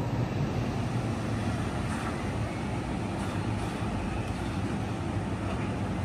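Seibu 40000 series electric train rolling slowly into the platform and coming to a stop: a steady low rumble.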